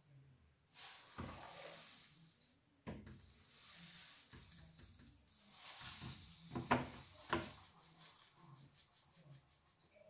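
A cleaning agent being poured into a washing machine drum: a faint hissing pour in a few spells, with two sharp clicks about two-thirds of the way through.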